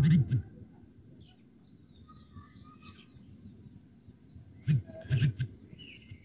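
Quiet background with birds chirping faintly, and a few short low sounds near the start and again about five seconds in.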